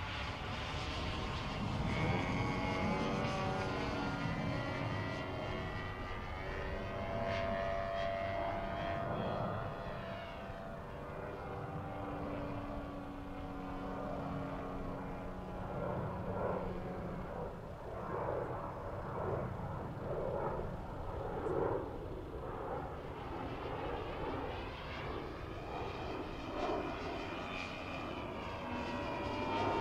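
Gas engine of a giant-scale radio-controlled YAK-54 aerobatic plane in flight, its pitch rising and falling over and over.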